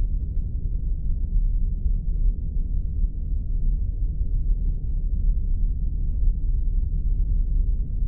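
Spaceship sound effect: a steady low rumbling drone, strongest at the very bottom and cut off above the midrange.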